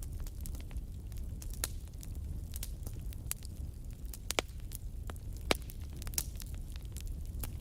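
Campfire crackling, with irregular sharp pops of burning wood, two of them louder about halfway through, over a steady low rumble.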